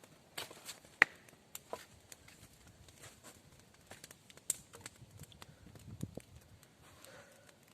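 Scattered sharp snaps and cracks of wood, the loudest about a second in.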